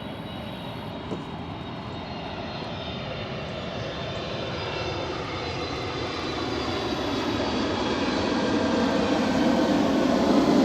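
A motor's drone growing steadily louder as it approaches.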